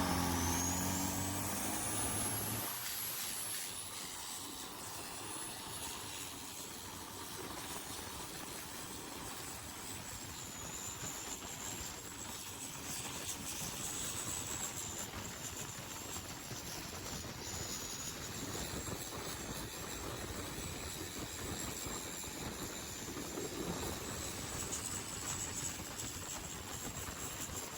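Turbocharged diesel longtail racing boat at full throttle: the engine note and a high turbo whistle climb over the first couple of seconds, then a steady high whine over a constant rushing noise.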